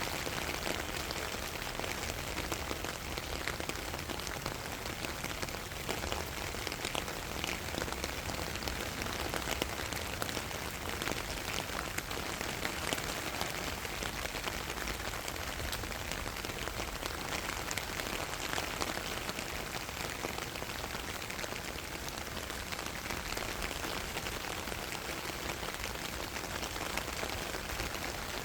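Steady rain falling on a surface, with many individual drops pattering.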